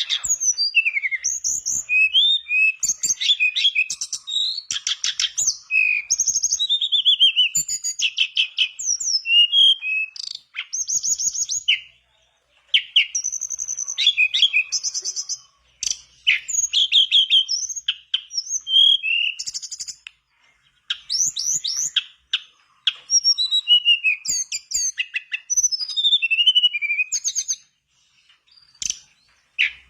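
Tledekan bakau singing in full, vigorous song: rapid strings of varied high whistled notes and trills, with a few brief pauses between bouts.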